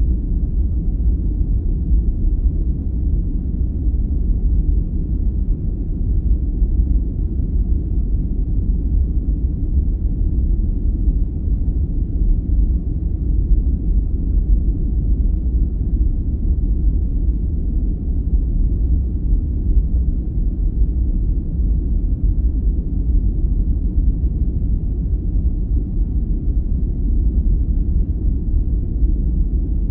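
Steady, unchanging sleep-aid noise, deep and rumbling, with its weight in the low range and no high hiss.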